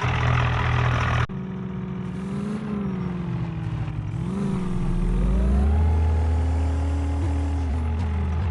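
Engine running: a rough, heavy idle that cuts off abruptly about a second in, then a smoother engine note that wavers and dips in pitch and, about halfway through, climbs to a steadier, higher speed.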